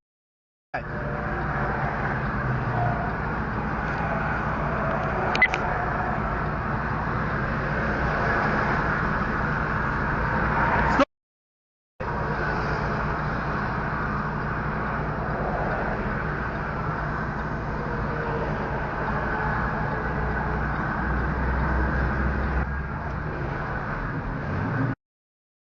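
Steady engine and road noise of a moving road vehicle, with a short click about five seconds in. The sound cuts out to silence briefly near the start and again around eleven seconds, and stops shortly before the end.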